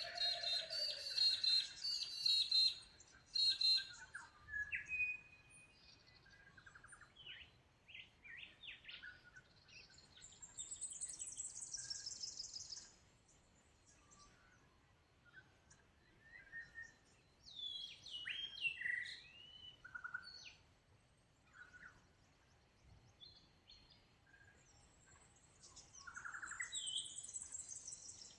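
Australian birds calling and singing: a loud burst of rapid chattering notes in the first few seconds, then scattered whistles and chirps. A high run of quick notes falls in pitch around the middle, and another comes near the end.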